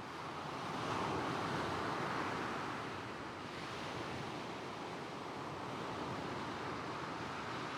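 Small waves washing onto a shingle beach, a steady hiss of surf that swells about a second in and eases off again, with light wind on the microphone.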